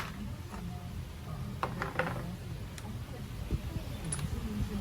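A few light clicks of metal parts being handled, over a low steady hum and faint background voices.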